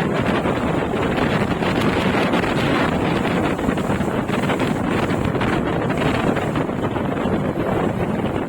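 Steady wind buffeting a phone's microphone on a moving bike ride, a loud, even rushing.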